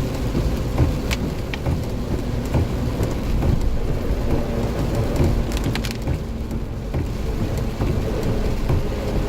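Jeep driving on wet roads: a steady low rumble and tyre hiss, with scattered sharp ticks and splashes.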